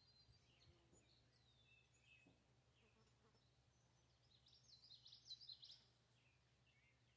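Near silence, with faint bird chirps and a short run of them about five seconds in, over a faint low hum.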